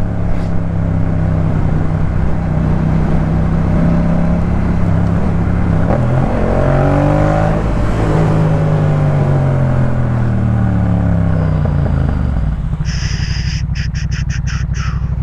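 Yamaha MT-07's 689 cc parallel-twin engine breathing through a Jeskap K4 full aftermarket exhaust under riding. Its pitch dips and swings back up around the middle, then drops to a lower, evenly pulsing note near the end as the bike slows.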